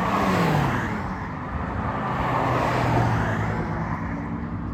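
Ferrari sports cars driving past one after another: the engine note of the first drops in pitch as it goes by, and a second car swells past about three seconds in.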